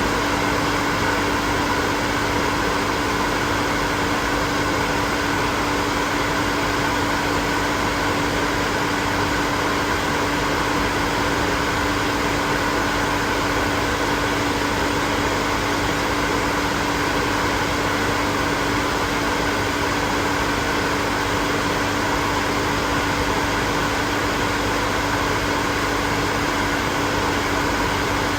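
Hair dryer running steadily at an even speed: a constant rush of blown air with a steady hum of the motor in it.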